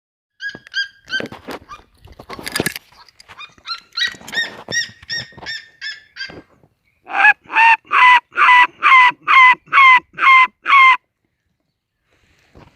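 Seriema-style yelping calls. First comes an irregular run of quieter yelps with some rustling. Then, from about seven seconds in, a loud, evenly spaced series of ten yelps follows, about two and a half a second, each dropping in pitch at its end, and it stops abruptly.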